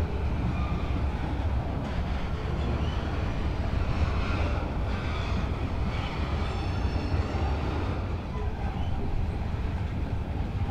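Freight train cars rolling past, a steady rumble of wheels on rail, with a brief high-pitched squeal about two-thirds of the way through.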